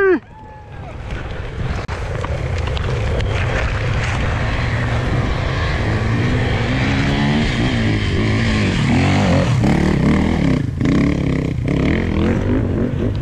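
Off-road motorcycle engine running, growing louder over the first few seconds and then holding steady, with the revs rising and falling in the later part.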